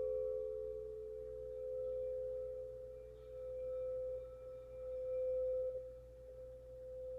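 Quartz crystal singing bowls sustaining two steady, close pure tones that swell and fade slowly, beating against each other.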